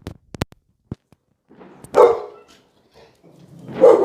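A dog barking twice, about two seconds apart, after a few faint clicks near the start.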